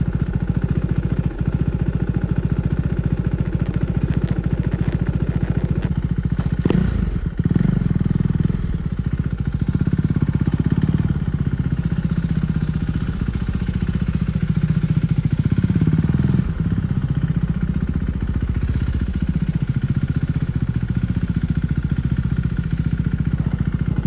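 KTM 390 Duke's single-cylinder engine breathing through an aftermarket Akrapovic exhaust while ridden. It runs steadily at first. About seven seconds in there is a short sharp sound, after which the engine note rises and falls with the throttle.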